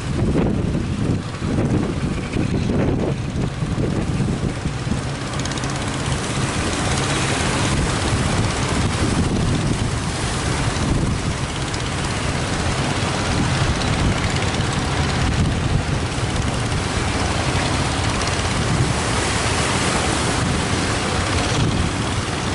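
Strong wind buffeting the microphone over breaking surf, with a low engine hum running steadily underneath.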